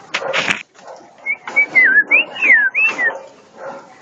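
A caged songbird singing a short phrase of clear whistled notes that slide up and down, with a loud brief noise just before it begins.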